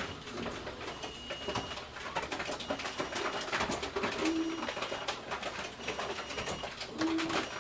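Bottle return machine working, with irregular knocks and rattles of containers and three short low hums.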